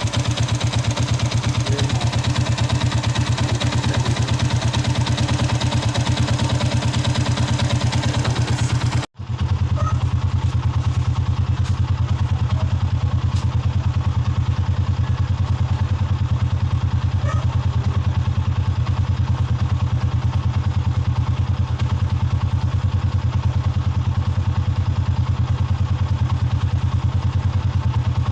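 Yamaha Sniper 150's single-cylinder four-stroke engine idling steadily while its idle speed is being adjusted. The idle had been set too low, which makes the bike hard to start. The sound cuts out for an instant about nine seconds in, and the same idle carries on afterwards.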